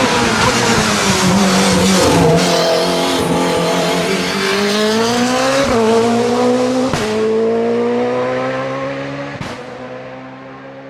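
LobArt LA01 Mugen hillclimb race car's engine, first coming off the throttle, then pulling hard up through the gears with a sharp crack at each gear change. The sound fades as the car drives away.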